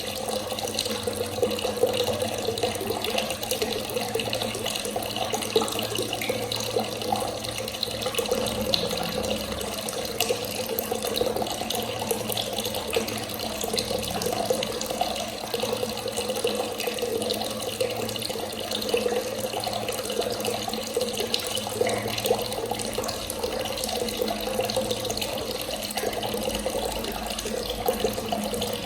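Tap water running in a steady, unbroken stream.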